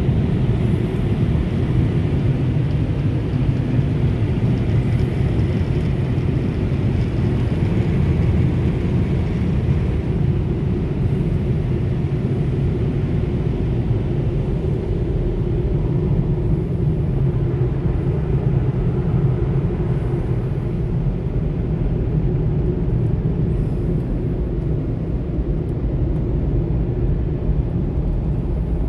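The drying stage of a Ryko SoftGloss Maxx soft-touch car wash: the dryer blowers run with a loud, steady rush of air, with no breaks or changes.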